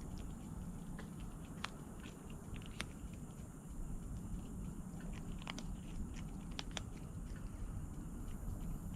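A cat eating, chewing and biting its food, heard as irregular crisp little clicks over a steady low rumble.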